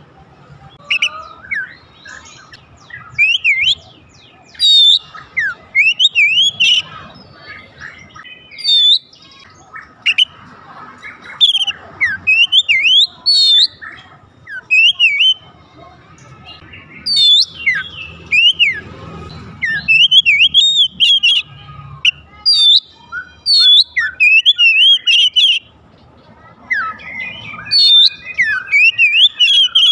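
Oriental magpie-robin (kacer) singing: varied, rapid whistled notes sweeping up and down, delivered in loud phrases with short pauses between them.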